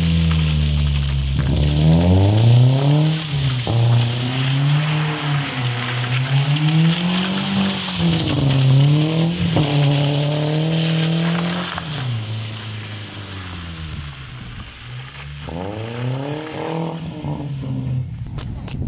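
BMW E36 3 Series sedan's engine revved hard and dropping back again and again as the car is driven hard on a wet dirt lane. The note grows fainter as the car pulls away, with one more rev near the end.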